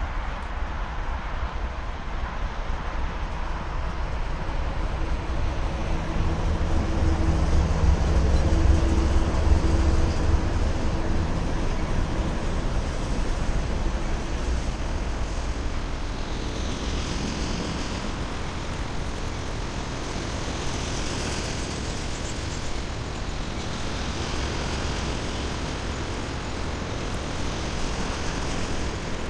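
Freight train passing close: the diesel locomotive's engine goes by loudest about 6 to 12 seconds in, then the steady rumble of flatcars loaded with rails rolling by.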